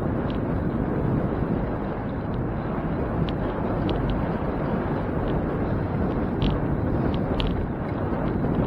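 Wind rushing over the microphone of a camera on a moving bicycle, with scattered light ticks at irregular intervals.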